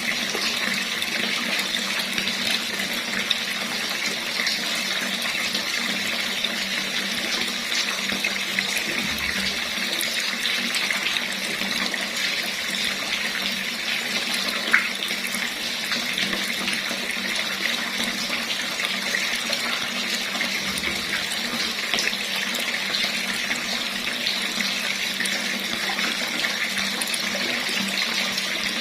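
Water running steadily from a tap, an even splashing rush, with a single small click about halfway through.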